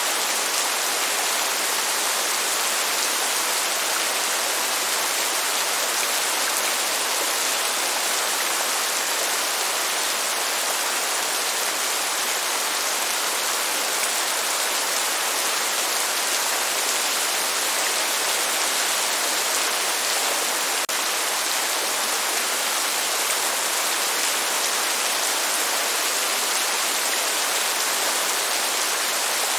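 Steady, even rain hiss with no change or break, and no thunder rumble.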